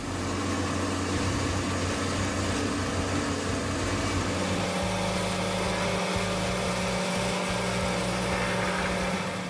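Morbark 1300 tub grinder running, a steady mechanical drone of engine and grinding whose pitch pattern changes about halfway through.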